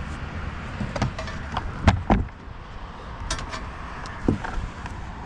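A handful of separate knocks and clunks, the two loudest close together about two seconds in, over a steady low background noise.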